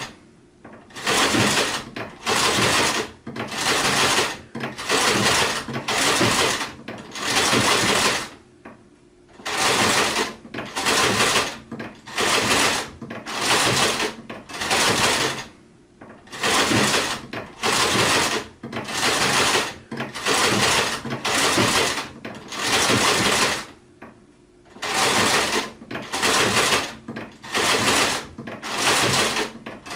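Sewing machine stitching in short runs of under a second each, starting and stopping about once a second, with two slightly longer pauses.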